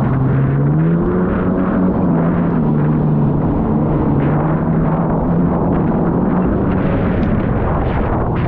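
Kawasaki SXR800 stand-up jet ski's two-stroke twin engine running hard under racing throttle over water noise. Its pitch rises about a second in, holds near steady, and dips briefly near the end.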